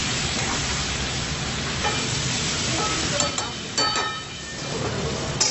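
Chicken and tomato pieces sizzling in a hot metal karahi, with a metal spatula scraping and clinking against the pan a few times in the second half, the sharpest clink near the end.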